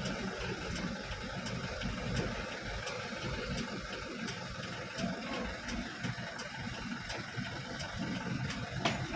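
Truck engine running steadily, a continuous low rumble with faint light ticks recurring at even intervals.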